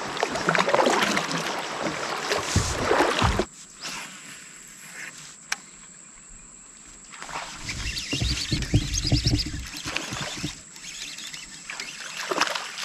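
Kayak on the water with wind buffeting the microphone. The noise cuts off sharply about three seconds in, leaving a quieter stretch with a single click, then picks up again for a few seconds.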